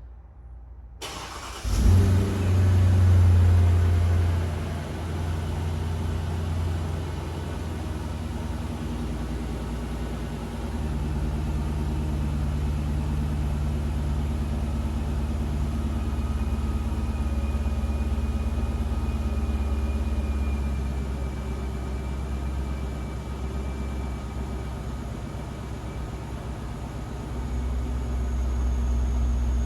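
2008 Mercedes-Benz CL550's 5.5-litre V8 cold start: the starter cranks briefly about a second in, the engine catches with a loud flare of revs, then settles within a few seconds into a steady idle.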